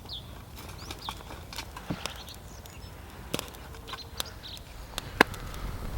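Wood fire crackling with a few sharp pops, the loudest near the end, while small birds give short, high, falling chirps.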